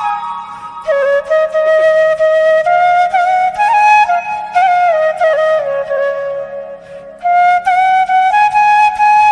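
Flute music: a solo flute playing a slow, ornamented melody with sliding notes, dropping away about six seconds in and coming back a second later.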